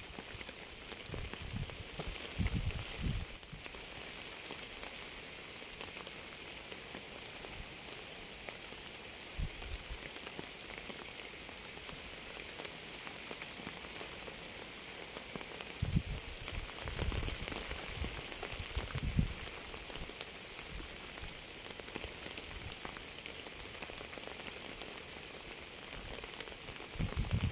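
Steady rain falling, an even hiss of many small drops. A few short low rumbles come through about two seconds in and again past the midpoint.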